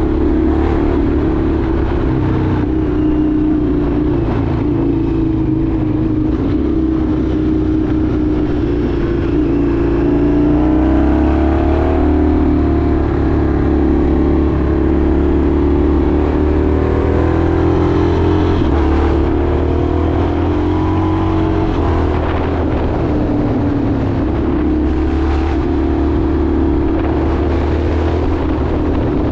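Indian FTR 1200's V-twin engine running while the motorcycle is ridden, its note rising and falling several times with the throttle, over steady road noise.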